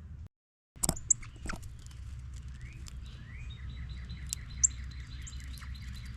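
A songbird singing a quick run of repeated, rising whistled notes, about three or four a second, with a few sharp clicks and taps early on and a steady low rumble underneath.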